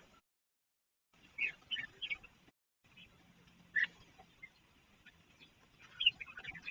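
Red-whiskered bulbuls giving short chirping calls in a few brief bursts: a cluster about a second and a half in, a single note near four seconds, and another cluster near the end. The audio drops to dead silence twice, briefly, near the start.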